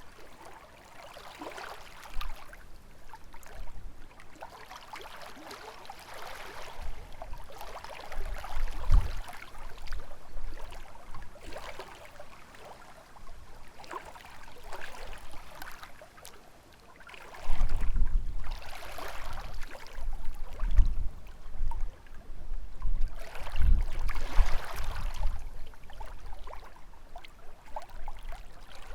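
Small lake waves lapping and splashing against the shore in uneven swells. Gusts of wind rumble on the microphone now and then, most strongly in the second half.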